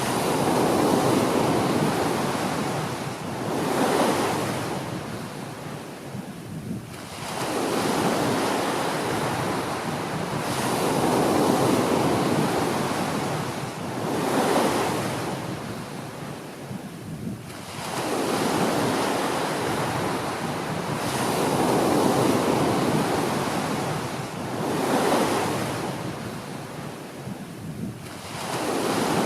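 Small waves washing onto a beach, each one swelling into a rushing hiss and then drawing back, about every three to four seconds, with longer lulls between some of them.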